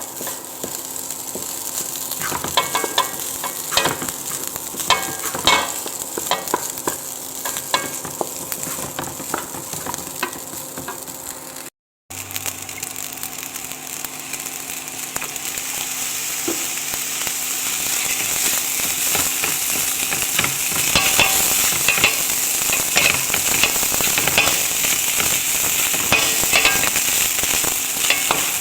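Food sizzling in a frying pan, with a spatula stirring and scraping it in short clicks; it breaks off for a moment partway through, and the sizzle grows louder after that.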